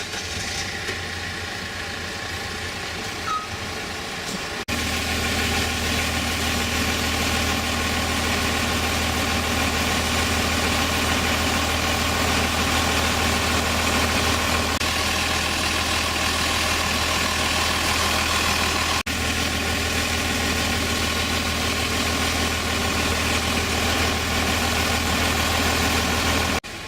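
Vehicle engine idling steadily with a low hum, getting abruptly louder about five seconds in.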